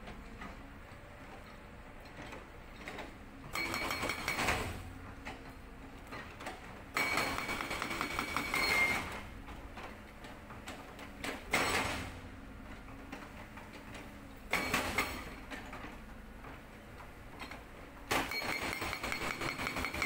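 Sangdo SD220 hydraulic breaker on a CAT 320D excavator hammering rock in five short bursts of rapid blows with a metallic ring, the excavator's diesel engine running between bursts.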